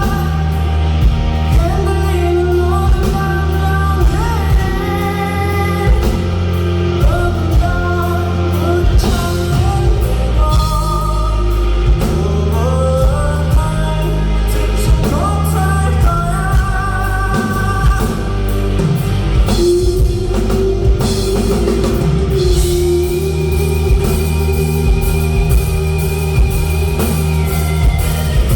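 Rock band playing live with electric guitar, bass and a drum kit keeping a steady beat, while a gliding lead melody carries the passage between sung lines.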